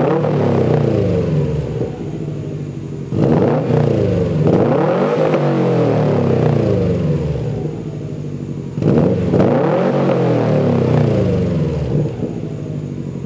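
2016 Subaru WRX STI's turbocharged 2.5-litre flat-four running through a Nameless Performance catback exhaust with 4-inch mufflers, revved in short throttle blips. It is settling from a rev as the sound begins, then revs up again about three seconds in and about nine seconds in, each time climbing and falling back to idle.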